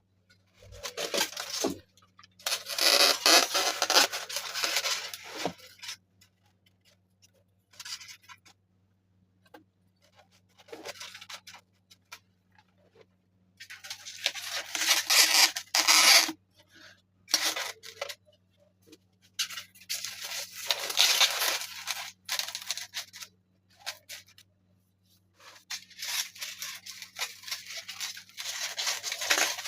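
Hands working build materials, making tearing and scraping sounds in several bursts of a few seconds each with pauses between, over a faint steady low hum.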